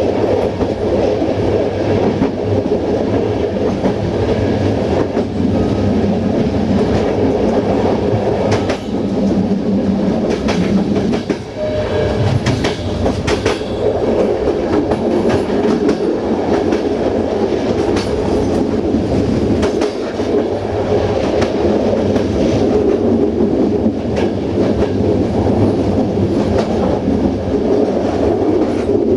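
Passenger train coach running along the line: a steady rumble of wheels on the track with clickety-clack over rail joints, the clicks sharper and more frequent about ten seconds in.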